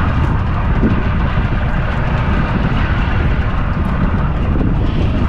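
Strong wind buffeting the microphone in open air over the sea: a loud, steady rumbling rush.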